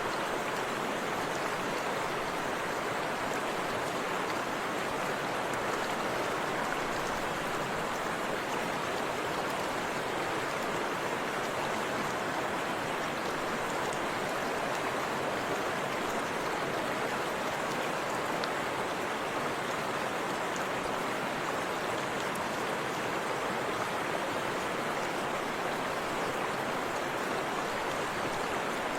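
Forest river rushing over a small waterfall, a steady, even wash of water noise.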